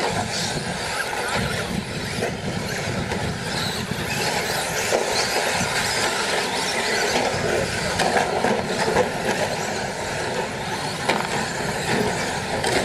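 Brushless electric short course RC trucks racing on a dirt track: a steady mix of high motor whine and tyre and dirt noise, with small rises and falls in pitch as the drivers work the throttle.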